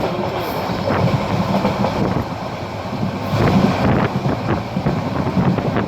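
Parabat Express passenger train running along the line: a steady rumble with rail clatter from the carriage, a little louder about three and a half seconds in.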